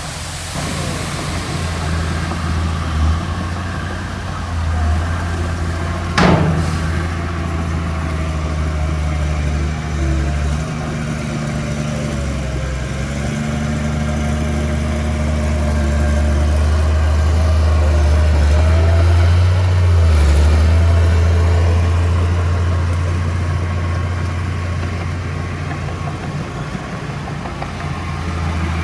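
Diesel engine of heavy earthmoving machinery running steadily, growing somewhat louder past the middle. There is one sharp bang about six seconds in and a faint wavering whine through the middle.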